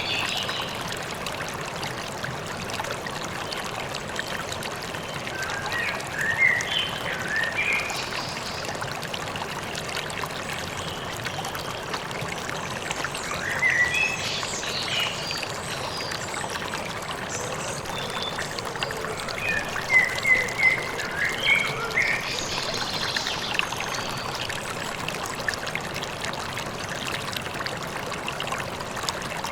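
Steady rush of a flowing river or stream, with small birds chirping in short bursts over it a few times.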